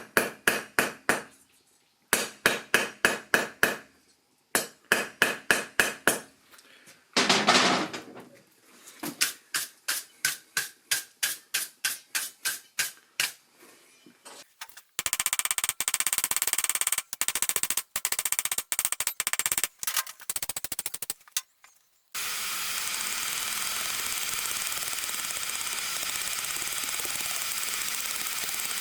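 Hand hammer striking hot 10 mm steel on an anvil in quick runs of ringing blows, about four to five a second, as the corners are worked down and the tip is rounded. About halfway through, the hammering stops and a steady hiss takes over.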